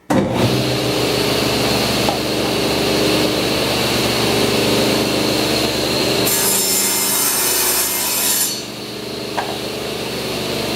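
Table saw running while ripping a strip off a melamine board. The blade's cut adds a harsh high hiss for about two seconds past the middle, then the saw runs on free with a steady hum.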